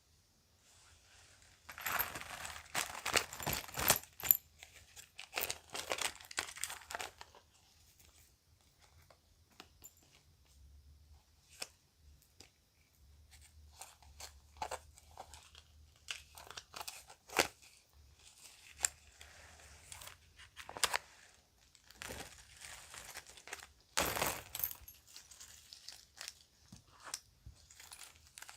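Plastic bag crinkling and rustling in irregular bursts, with small sharp clicks from handling children's jewelry; the busiest handling comes a couple of seconds in and again near the end.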